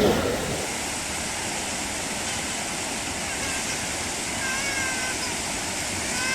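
Steady rush of river water. About halfway through, a few short, high, meow-like calls rise and fall in pitch, the clearest near the end.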